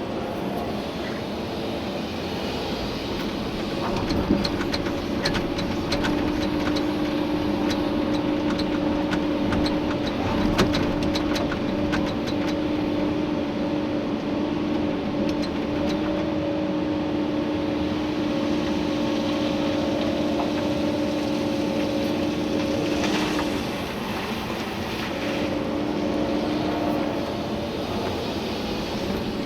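Komatsu PC290-11 excavator's engine and hydraulics working under load, heard from inside the cab, with a steady whine that eases off for about a second and a half near the end before coming back. Scattered sharp clicks and knocks of gravel in the bucket during the first half.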